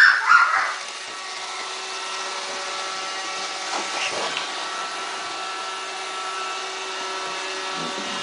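Roomba robot vacuum running across the floor: a steady whir with a constant high-pitched motor whine. A voice is heard briefly at the very start.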